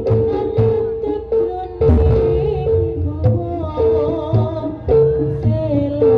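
Live Javanese jaranan (kuda lumping) ensemble music: drums beating under a repeated held note, with a wavering melody line above.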